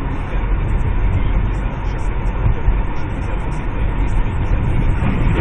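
Steady rumble of a car on the move: engine and road noise.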